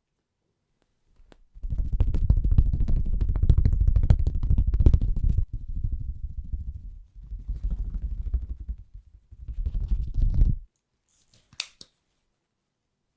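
Close-miked rubbing or scraping, heavy in the low end and crackly, in three long passes, then a single sharp click.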